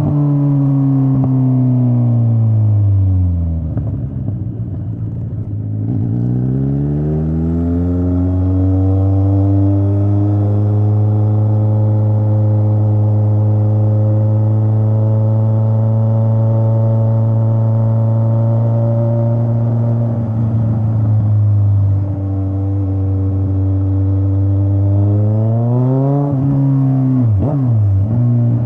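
Straight-piped Kawasaki Z900 inline-four exhaust while riding: the engine note falls as the bike slows over the first few seconds, climbs again as it accelerates, holds steady at cruising speed for about ten seconds, then rises and drops once more near the end.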